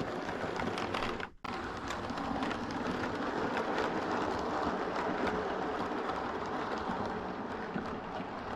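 Model train running on the layout's track: a steady rumble of wheels and motor with light clicks, broken by a brief cut about a second in.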